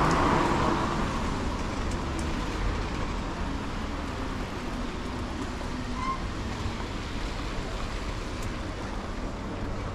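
Street traffic noise: a vehicle going by fades away over the first couple of seconds, leaving a steady wash of road noise.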